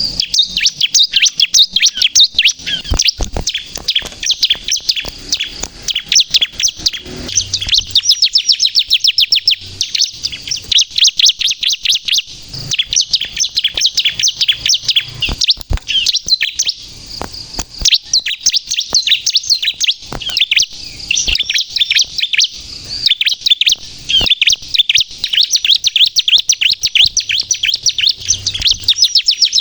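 Bar-winged prinia (ciblek, crystal variety) singing without letup: long, fast strings of high chirping notes broken by short pauses, with a few sharp clicks among them.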